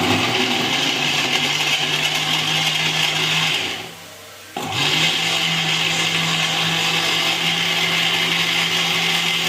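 Electric blender running as it blends lemon, mint leaves and a little water into juice. It is switched off about three and a half seconds in and winds down, then starts again about a second later, rising quickly to speed and running steadily.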